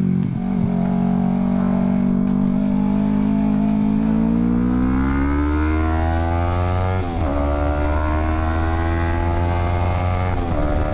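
Yamaha R3 parallel-twin motorcycle engine under way. It holds a steady pitch at first, then accelerates with rising revs, upshifting with a sharp drop in pitch about seven seconds in and again near the end.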